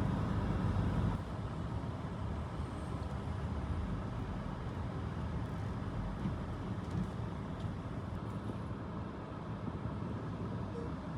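Steady low rumble of a vehicle's engine and road noise, dropping a little in level about a second in.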